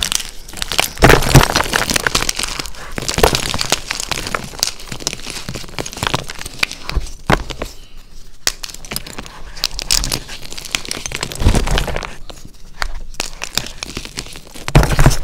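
Dyed SPRI gym chalk block being crushed by hand: dense, crisp crunching and crackling as the chalk crumbles, with a few louder crunches about a second in, late on, and near the end.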